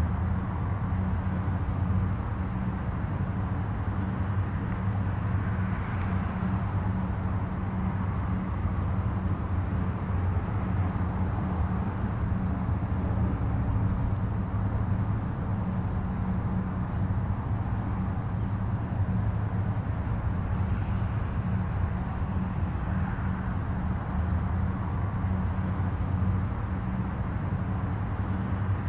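Distant highway traffic: a steady low rumble of tyres and engines, swelling gently every few seconds as vehicles pass.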